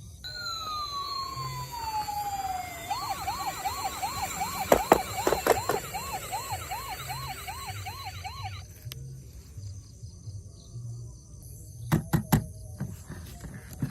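Battery-powered toy emergency vehicle's electronic siren: one falling tone, then a fast up-and-down wail that cuts off suddenly about two thirds of the way in. A few sharp knocks during the wail and again near the end.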